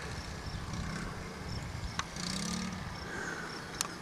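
Honda Z50R mini dirt bike's small four-stroke single-cylinder engine running some way off, its pitch rising and falling with the throttle. Two sharp clicks stand out, about two seconds in and near the end.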